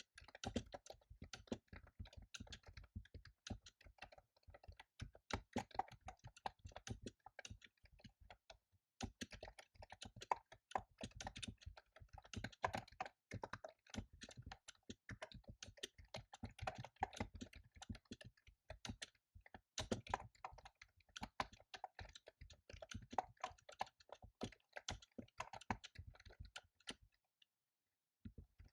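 Computer keyboard typing in fast runs of key clicks, broken by short pauses, stopping about a second and a half before the end.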